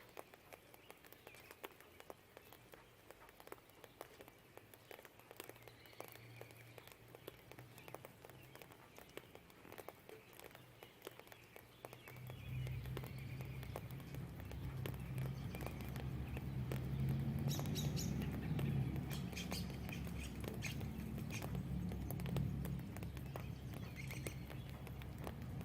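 Rain pattering and dripping, with a few faint bird chirps. About halfway through, a deep low rumble sets in suddenly, swells for several seconds and carries on to the end.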